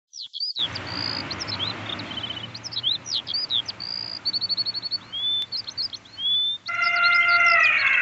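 Several songbirds singing: quick high chirps, whistles and fast trills overlapping. Near the end a lower, slightly falling call with several tones is held for about a second and a half.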